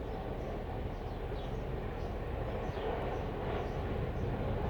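Serbia Cargo class 661 diesel-electric locomotive (EMD G16 type) approaching at the head of a freight train, its engine rumble growing slowly louder.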